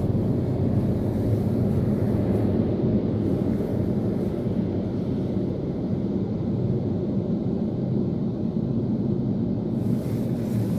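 Istobal M'Wash 3 Pro brush car wash at work: a steady, low rushing rumble of water and machinery with little treble, unbroken throughout.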